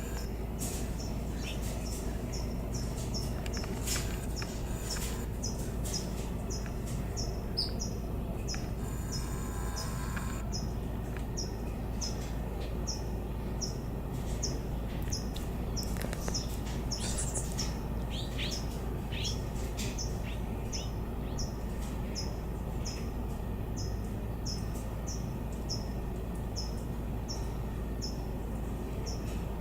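A small songbird calling a short, high chirp over and over, about one and a half times a second, with a few other bird calls mixed in around the middle.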